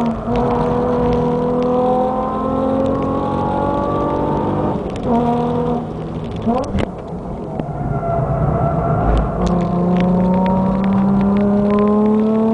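Nissan 350Z's 3.5-litre V6 through an Amuse full exhaust, heard from inside the cabin while lapping hard. The engine note climbs steadily in pitch, drops about five seconds in, makes a quick rev sweep a couple of seconds later, then climbs again.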